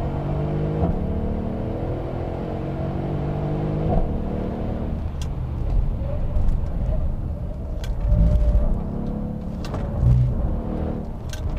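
Mercedes-Benz E63 AMG S-Model's twin-turbo V8 pulling hard, its note climbing steadily with the revs for about four seconds before a break in the note. After that it runs lower and rougher, with a couple of brief low thumps.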